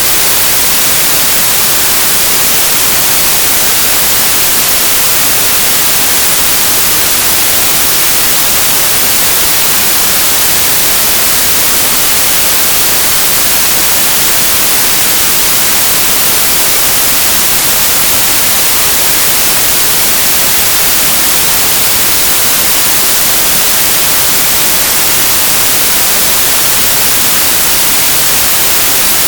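Synthesized white noise: a steady, even hiss with its energy spread flat across the spectrum, bright and unchanging throughout.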